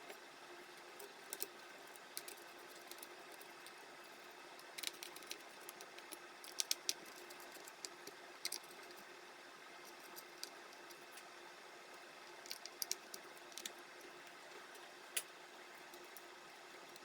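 Light clicks and taps of small laptop parts being handled, scattered irregularly with a cluster about five to seven seconds in, over a faint steady hiss.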